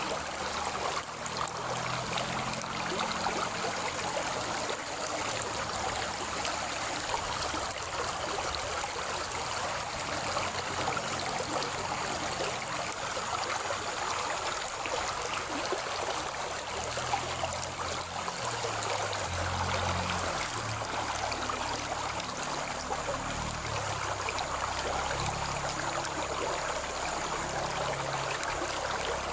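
Steady rush of flowing stream water, running on without a break.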